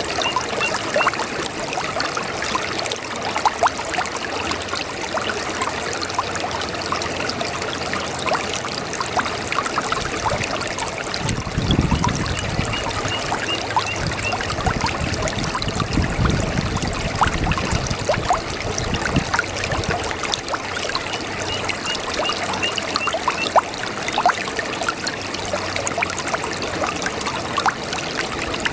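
A small brook babbling and trickling steadily, full of small splashes and ticks, with a deeper gurgle swelling for several seconds around the middle.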